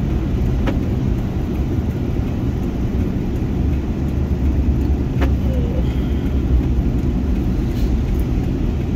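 Steady low rumble of a 2000 Ford F350's 7.3-litre turbo diesel V8 and road noise, heard from inside the cab while driving.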